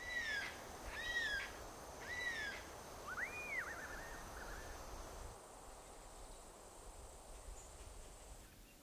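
Birds calling: three short arched calls about a second apart, then a rising-and-falling whistle and a brief warble, over a faint background hiss. The calling stops about halfway through.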